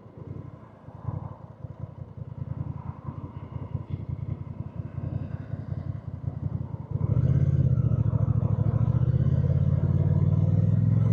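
Honda Rebel 1100's parallel-twin engine running at low revs with a pulsing beat, then about seven seconds in the throttle opens and it runs much louder and steadier.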